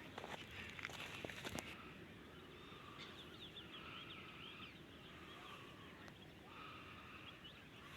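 Faint birds chirping and calling in repeated short phrases, with footsteps crunching for the first second and a half or so.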